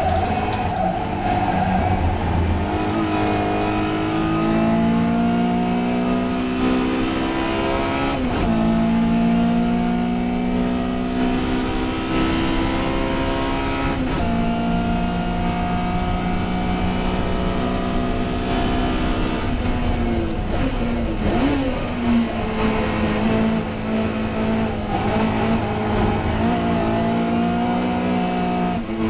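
Racing touring car engine under hard acceleration, its note climbing slowly through each gear with sharp breaks for gear changes about eight and fourteen seconds in. It falls away and picks up again about twenty seconds in.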